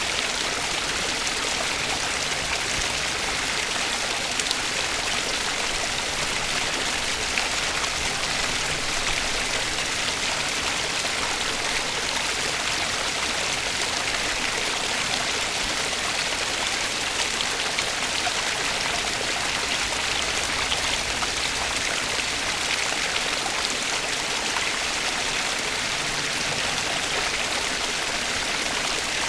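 Flowing water rushing steadily, an even hiss with no let-up.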